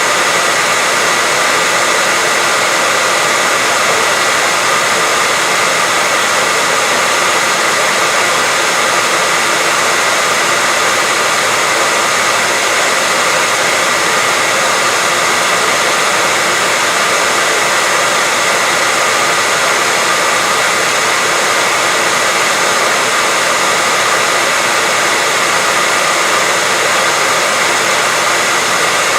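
Continuous white noise: a loud, steady hiss that never changes, with a faint high tone held in it.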